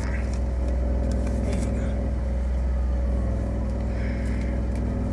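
Car engine idling, heard from inside the cabin as a steady low hum, with a few faint clicks and rustles.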